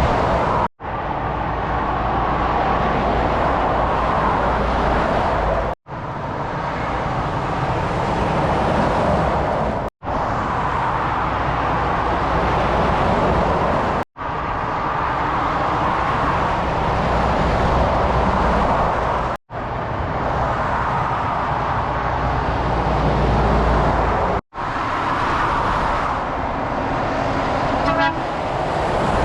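Motorway traffic: lorries and cars passing at speed with a steady rumble of engines and tyres, in short stretches that cut off abruptly every four to five seconds. A brief horn toot near the end.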